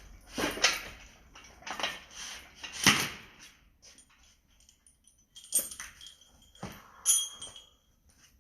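Metal tools and parts clanking and rattling as they are handled during car engine removal work: a string of separate sharp knocks and jangles, the loudest about three seconds in, with a few more in the second half.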